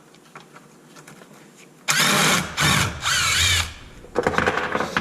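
Cordless drill-driver backing out a screw from an RC truck's rear brace: three short runs of the motor about two seconds in, the whine wavering up and down in pitch, followed by a softer rattle near the end.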